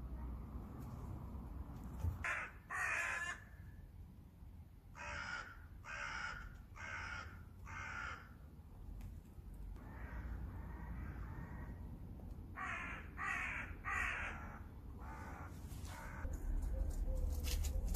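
A bird calling in series of short calls, two to five at a time, about two-thirds of a second apart.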